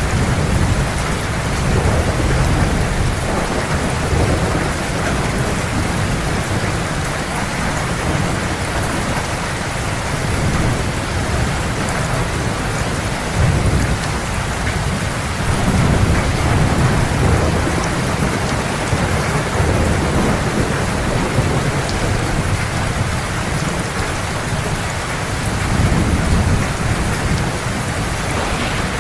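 Heavy rain falling steadily, with low rolling thunder rumbling that swells and fades every few seconds.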